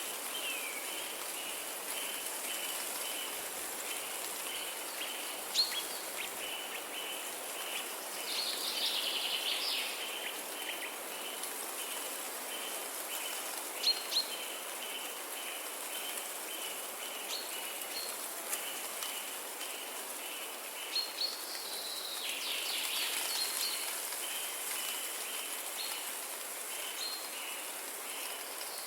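Natural dawn ambience: birds chirping and trilling now and then, over a high chirp that repeats evenly a few times a second and a steady background hiss. The hiss is like trickling water or light rain.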